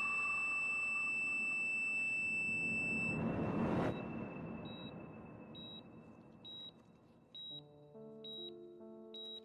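Dramatic score with a steady high tone that swells into a whoosh about four seconds in and then drops away. After it a hospital patient monitor beeps about once a second, over soft sustained music notes.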